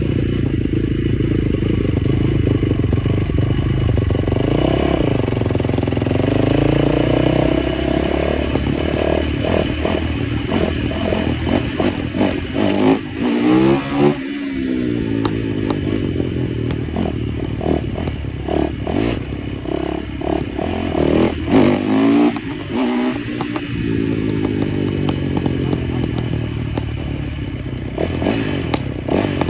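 Small motorcycle engine running, its pitch rising and falling with the throttle. The pitch swoops sharply about halfway through and again about three-quarters of the way in, as when it passes close by. Rattling clatter comes and goes through the middle.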